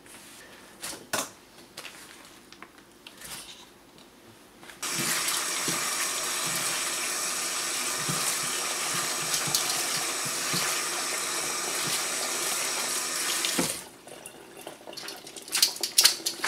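Kitchen tap running into a stainless steel colander of sliced red onion in the sink, rinsing the slices. The steady stream comes on about five seconds in and stops about nine seconds later, with a few light clicks of handling before and after it.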